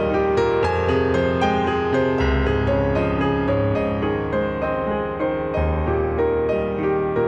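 Piano music played on a Roland FP-30 digital piano: a flowing run of notes and chords over held bass notes, with the bass changing twice.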